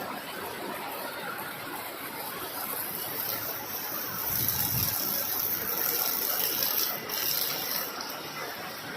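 Waterfall with a steady rush of falling water that swells a little in the middle.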